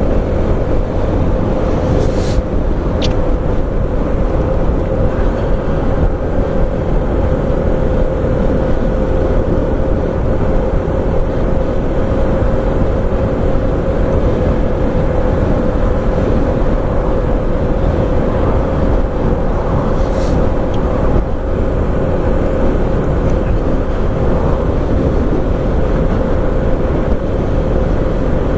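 Honda CB125F's single-cylinder engine running at a steady cruise, its note holding one even pitch, under wind and road noise. A few brief clicks sound about two seconds in and again near twenty seconds.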